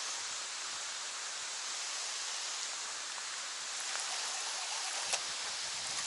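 Steady hiss of light rain falling on the water, with a couple of faint ticks, one about four seconds in and one about five seconds in.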